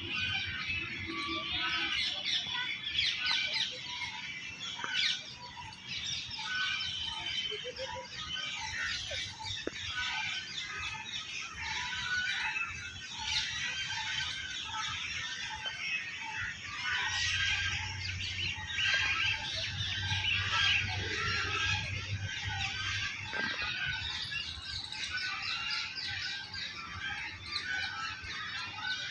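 Many birds chirping and calling at once, a dense chorus of short high notes, with one call near the bottom of the chorus repeated about twice a second. A low hum joins in for several seconds past the middle.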